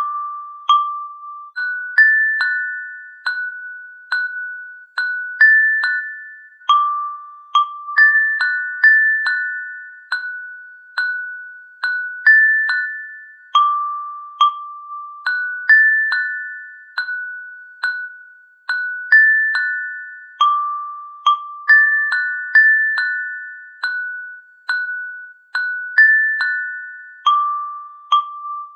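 A slow, gentle melody of bell-like struck notes, such as a glockenspiel plays, each note ringing out and fading before the next, about one to two notes a second.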